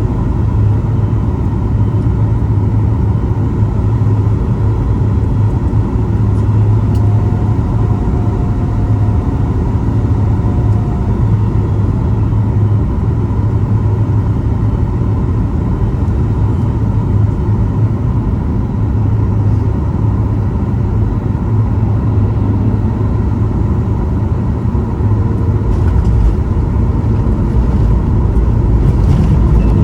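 Steady low rumble of cabin noise inside a Boeing 737 MAX 8 airliner, with a few faint knocks and a swell of deeper rumble near the end.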